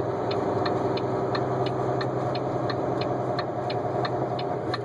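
Vehicle engine running steadily, heard from inside the cab while driving, with a regular light ticking about four times a second over it.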